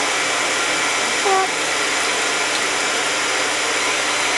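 Handheld blow dryer running steadily, blowing air over a wet parrot to dry it off.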